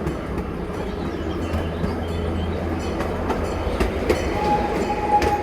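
Tourist train running along the track with a steady low rumble and the clickety-clack of wheels over rail joints. A steady squeal sets in about four seconds in.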